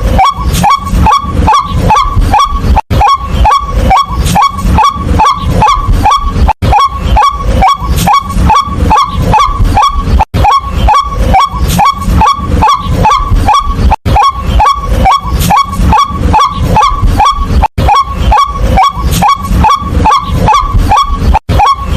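White-breasted waterhen calling its repeated 'kwak' note, about three calls a second, each dropping in pitch. The calls break off briefly every three to four seconds and then start again.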